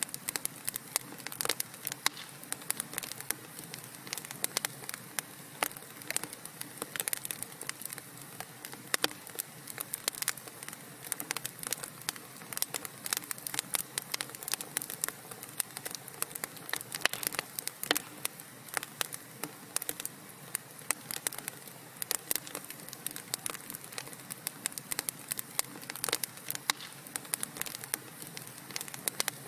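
Wood fire crackling in a fireplace: many small irregular pops and snaps, several a second, over a soft steady hiss.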